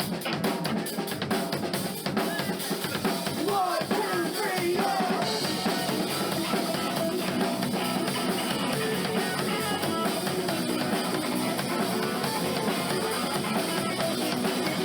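Live band music with the drum kit to the fore: kick drum and snare hits are sharpest in the first couple of seconds, and the rest of the band fills in.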